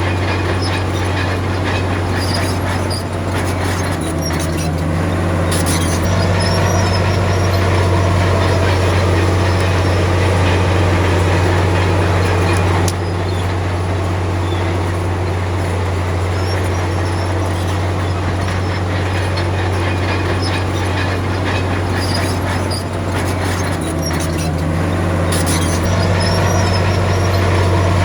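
Komatsu D53P crawler bulldozer's diesel engine running steadily under load, a strong low drone. Twice, once a few seconds in and again near the end, the engine note shifts and a metallic clatter of tracks and blade rises over it.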